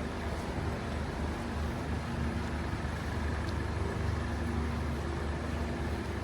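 City street traffic in the rain: a steady low engine rumble under a constant hiss of rain on wet streets.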